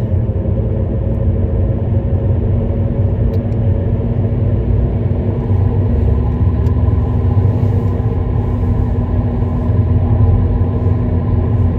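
Steady road and engine noise of a moving car heard from inside the cabin: a low rumble with a constant hum that holds even throughout.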